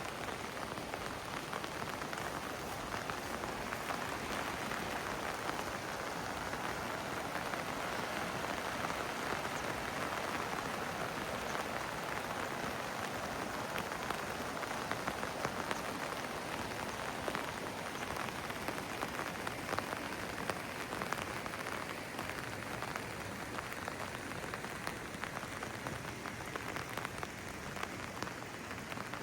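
Steady rain falling on hard surfaces, an even hiss dotted with the ticks of individual drops.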